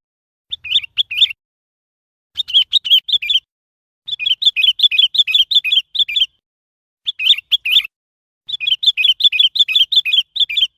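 Sooty-headed bulbul singing: five short bursts of quick, rapidly repeated chirping notes, separated by brief pauses. The longer bursts come about four and eight seconds in.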